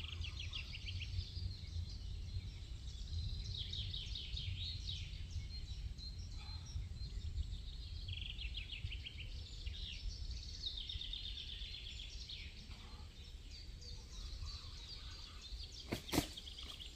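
Songbirds singing in repeated trilled phrases over a steady low rumble, with a couple of sharp knocks near the end.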